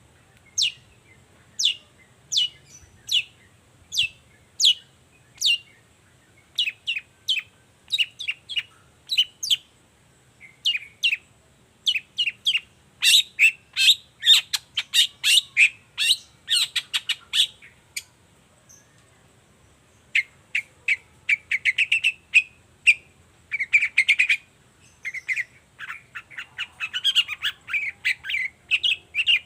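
Long-tailed shrike singing. At first it gives a series of sharp, clipped high notes about one and a half a second, then quickens into dense rapid runs. After a short pause near the middle it switches to harsher, scratchy chattering phrases.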